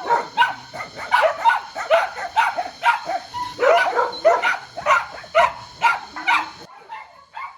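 Dogs barking over and over in quick succession, about two or three barks a second, then breaking off suddenly near the end.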